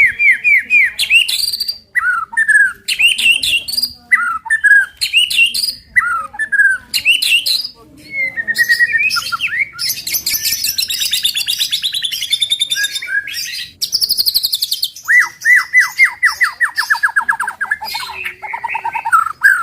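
White-rumped shama (murai batu) singing a varied, rapid-fire 'tembakan' song: short whistled phrases with notes sweeping downward, fast rattling trills in the middle, and a long run of quickly repeated notes near the end.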